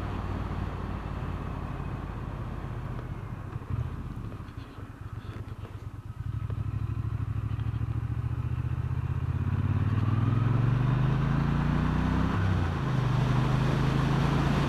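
Motorcycle engine heard from the saddle: running quieter and lower about four to six seconds in, then pulling away with a jump in loudness, its pitch climbing, dipping briefly about twelve seconds in, then climbing again.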